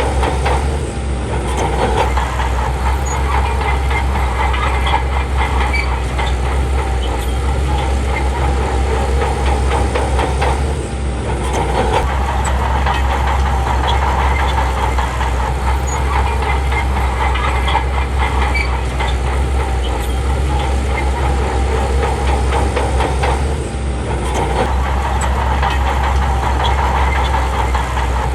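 SHANTUI crawler bulldozer's diesel engine running steadily, with a dense metallic rattle from its steel tracks.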